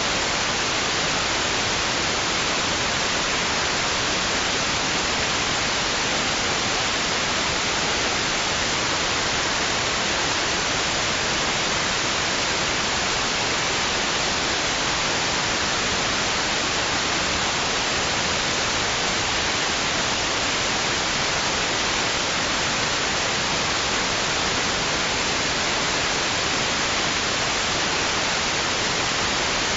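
Steady white noise: an even, unchanging hiss, strongest in the high range, played as a sleep aid for babies.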